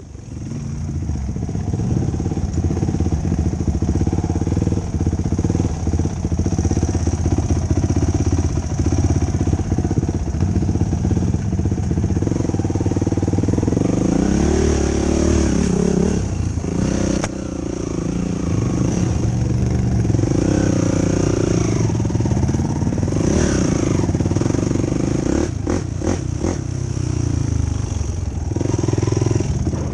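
Yamaha YFZ450 ATV's single-cylinder four-stroke engine running under load on a trail, its pitch rising and falling as the throttle is opened and closed. A few sharp knocks come near the end.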